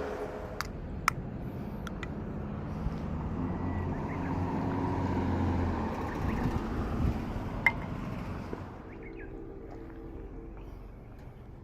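Vehicle engine hum that swells and fades in the middle, like a vehicle passing by, with a few sharp clicks over it.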